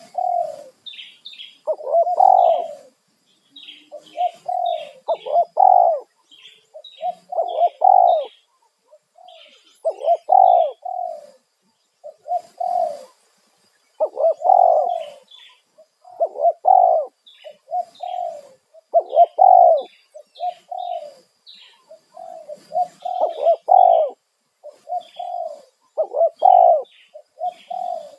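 Spotted doves cooing over and over, one phrase after another every second or two, with short high chirps of small birds above them.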